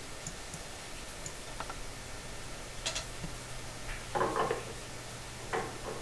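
Small clicks and knocks of metal gas-pipe fittings being handled: a sharp click about three seconds in, a cluster of knocks a second later and another near the end. Under them run a steady hiss and a low hum.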